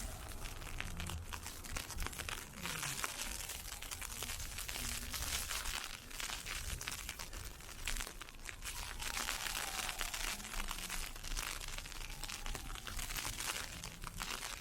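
Dense crackling and crunching of ice pellets and footsteps in icy snow, swelling and easing, over a low rumble.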